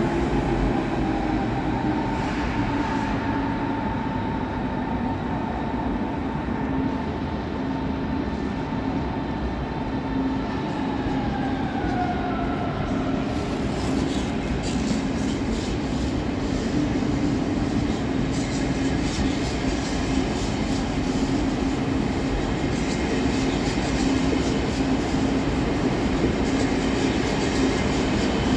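ICE high-speed electric train pulling in: its motors whine in two tones that fall slowly in pitch as it brakes. From about halfway the train runs on with a steady low hum and a dense clatter of wheels on rails.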